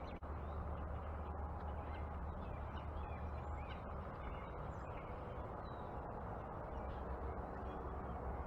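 Backyard birds chirping and calling faintly in short notes over a steady low outdoor rumble. The sound drops out briefly about a quarter second in.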